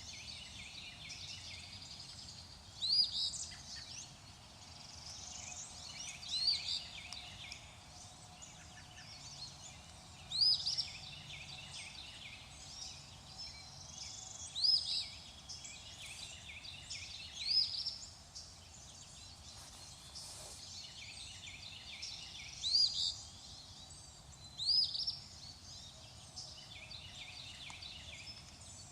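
Birds singing: one bird repeats a short, sharp rising phrase every few seconds, about eight times, over a steady background chorus of high chirping.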